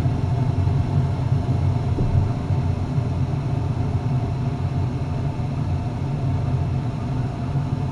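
Lennox gas furnace running with its burners lit: a steady low rumble with a faint hum.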